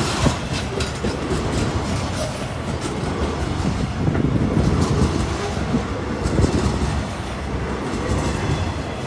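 Freight train rolling past, a steady low rumble with its wheels clicking over the rails throughout.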